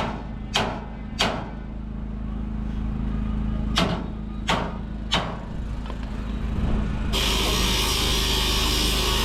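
Sharp knocks, three in a row about two thirds of a second apart, then three more a few seconds later, over a steady low hum. About seven seconds in, a steady hiss starts suddenly.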